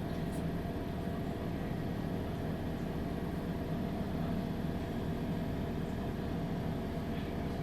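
Inside a MAN NG 313 CNG articulated bus, its natural-gas engine runs steadily with a low rumble and a faint steady whine.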